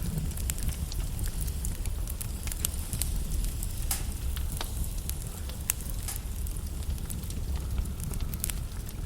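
Log fire in a fireplace crackling: scattered sharp pops and snaps over a steady low rumble of the flames.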